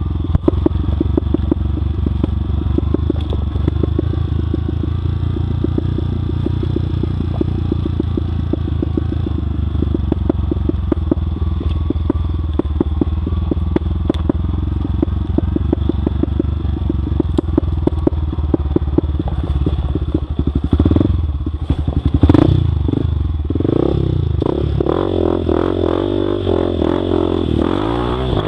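Motorcycle engine running with a steady, rapid firing pulse and some clatter. From about 21 seconds in, the engine note rises and falls more, as the throttle is worked.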